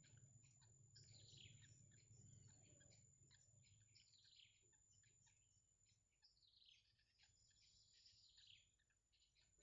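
Faint bursts of rapid, high chirping from birds, coming in three runs of quick falling notes, over a steady low hum.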